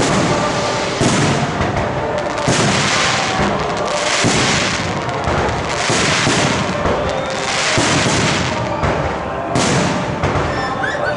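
Fireworks display: aerial shells bursting overhead in quick succession, roughly one bang every second or so, over a continuous din.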